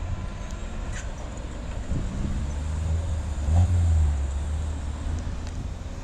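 Low rumble of a passing vehicle that swells about three and a half seconds in, then eases off.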